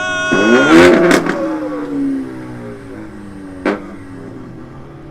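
Performance car engine revved hard and held high, then falling away as the throttle closes, with a loud exhaust pop about a second in and a single sharp backfire crack near the end: exhaust pops and flames on the overrun.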